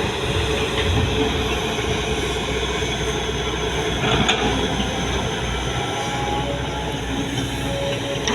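Heavy diesel earth-moving machinery running steadily, a constant rumbling noise with faint short squealing tones here and there and a small click about four seconds in.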